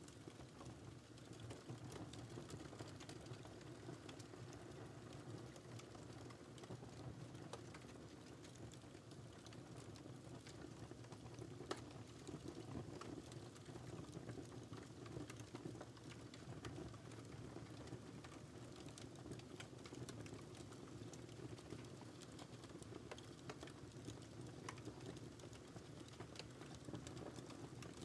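Wood fire crackling in a fireplace: a steady low rustle of burning with scattered small pops and snaps, one sharper snap about twelve seconds in.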